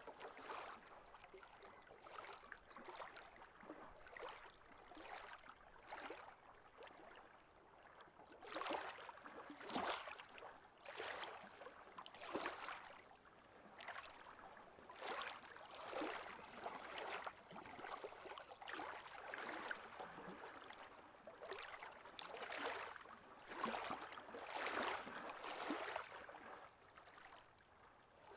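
Small waves washing onto the beach, coming in irregularly about once a second. It is faint at first and grows a little louder after the first several seconds.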